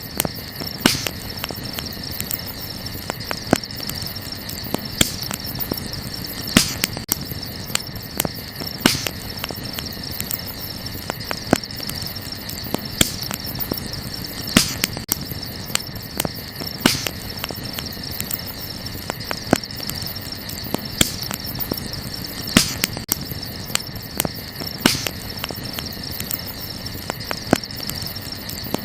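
Wood campfire crackling, with irregular sharp pops and a few louder snaps every couple of seconds, over a steady high chorus of crickets.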